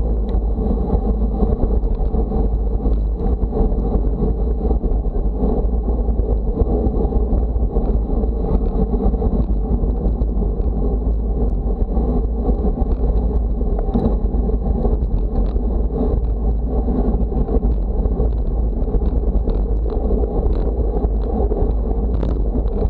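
Steady rush of wind and road noise at speed, with the wind buffeting the microphone into a constant low rumble.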